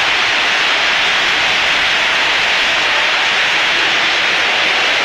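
Storm downpour: a steady, loud rush of heavy rain and wind noise.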